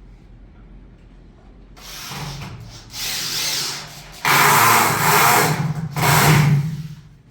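A power tool running in three stretches, starting about two seconds in. A steady motor hum sits under a rough noise, and the last and longest stretch is the loudest.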